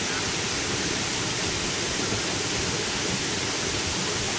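Waterfall water rushing, a steady, even roar of falling water.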